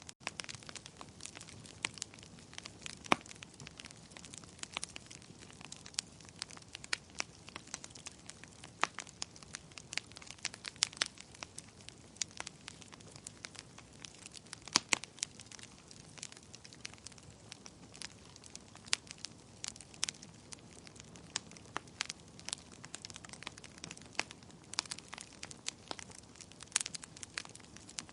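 Wood fire in a fireplace crackling: irregular sharp pops and snaps from the burning logs, several each second, over a faint low hiss.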